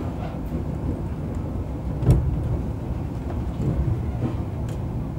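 Passenger train rolling into a station, heard from inside the coach: a steady low running rumble, with one sharp knock about two seconds in.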